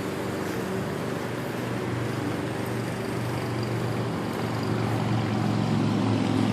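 Motorboat engine running steadily with a low, even hum that grows louder over the last couple of seconds.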